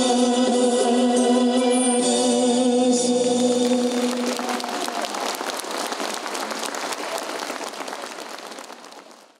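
A song ends on a long held sung chord with instrumental backing, then applause takes over and fades away over about five seconds before cutting off.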